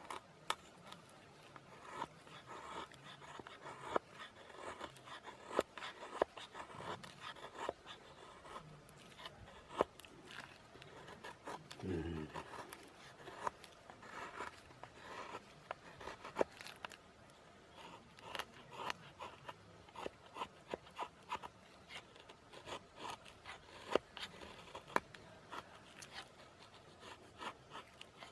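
Knife blade shaving thin curls off a stick of wood to make a feather stick: repeated short scraping strokes at an uneven pace.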